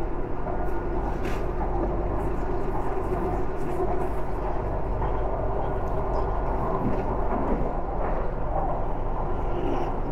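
Steady running noise inside a moving BTS Skytrain car, with a low hum underneath and no distinct events.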